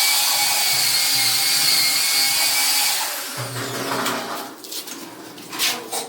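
A handheld power tool's electric motor running at a steady high whine with a hiss, cutting off about halfway through. A few quieter knocks and clicks follow.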